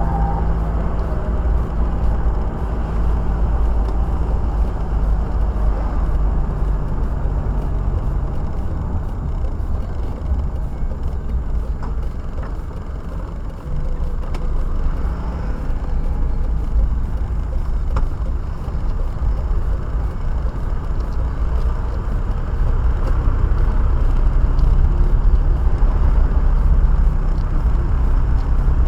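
Car engine and road noise heard from inside the cabin while driving: a steady low rumble that drops off briefly about halfway through, then builds again and is louder near the end.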